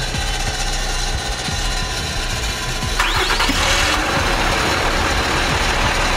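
A low engine rumble, then about halfway through a rising whine and a jump to a louder steady running sound as the trophy truck's engine starts.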